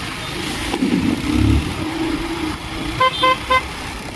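Vehicle horn giving three quick short toots about three seconds in, over the steady rumble of road and engine noise from a motorcycle riding in traffic.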